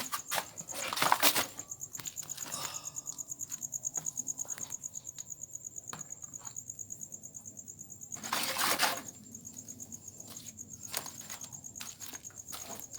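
An insect, most likely a cricket, trilling steadily in a fast pulsing high tone, with scattered clicks and two louder noises, one about a second in and one about eight and a half seconds in.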